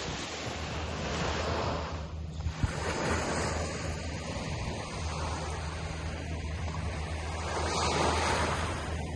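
Ocean surf washing onto a beach, a steady rush that swells as waves break, loudest about eight seconds in. A brief knock sounds about two and a half seconds in.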